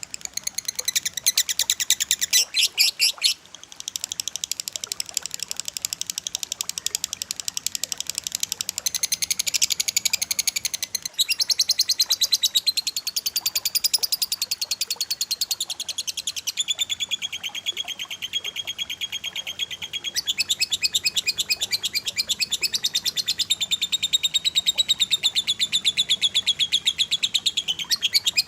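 Cililin and lovebird song: rapid, sharp, high chirps fired back to back in dense trills, the phrase changing every few seconds, with a brief break about three and a half seconds in.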